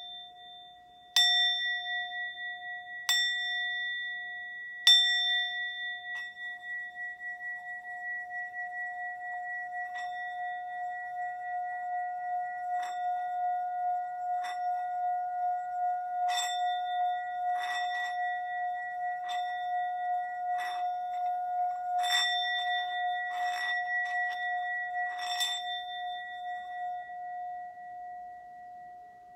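Singing bowl struck three times, then circled at the rim so that a steady ringing tone swells and holds. Lighter strikes ring over it in the second half.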